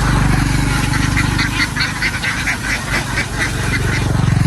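A large flock of ducks quacking over one another in a dense, continuous chatter, over the low, steady hum of an idling engine.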